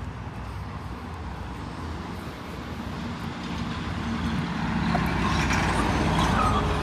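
A road vehicle passing close by with a low engine and tyre rumble that builds to its loudest about five to six seconds in, then begins to fade.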